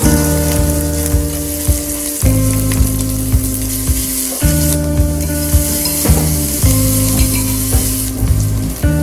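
Shallots and chillies sizzling in hot oil in a glass pot while being stirred with chopsticks, frying until fragrant. Background music with a steady beat plays over it.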